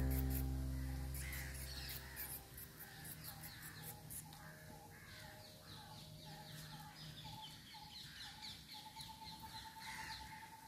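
Faint birds calling, a run of short repeated notes with higher chirps over them, as background music fades out in the first couple of seconds.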